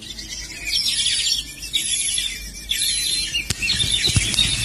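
Birds chirping: quick, high twittering calls in short runs, with one sharp click about three and a half seconds in.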